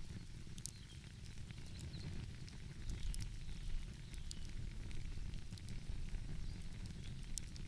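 Wood fire crackling, with scattered sharp pops and snaps, over a steady low rumble.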